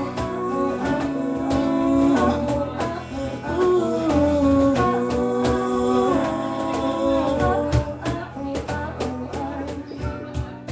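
Live band music with guitar, drums and long held vocal notes, winding down near the end of a song: the held notes stop about three-quarters of the way in and the sound thins to scattered drum hits and fades.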